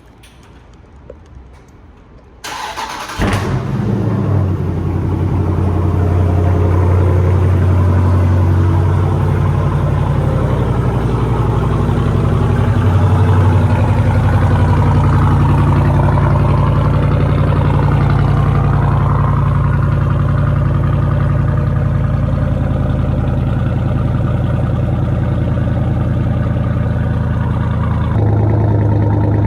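Jeep Grand Cherokee SRT's HEMI V8 cold-started: the starter cranks briefly about two and a half seconds in, the engine catches, then settles into a loud, steady cold high idle with a deep drone. The idle note shifts slightly about halfway through and steps up a little near the end.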